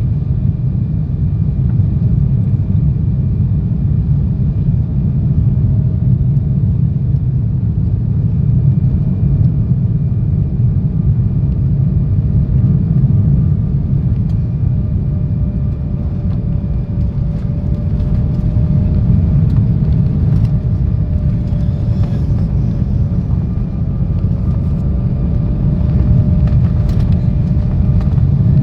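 Steady cabin noise of an Embraer E170 jet heard from a window seat: a dense low rumble with a faint engine whine that wavers slightly in pitch, and a few faint clicks near the end.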